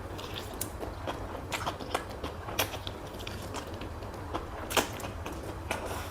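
Person eating: chewing with scattered short mouth clicks and smacks, one stronger about five seconds in, over a steady low hum.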